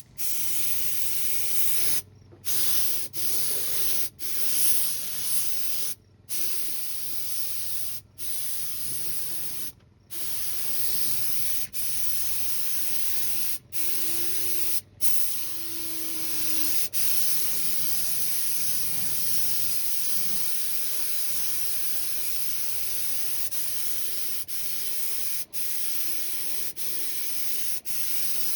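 Compressed-air paint spray gun hissing steadily as it sprays paint onto a car body. The hiss cuts out for a moment about a dozen times where the trigger is let go between passes, then runs unbroken for most of the later part.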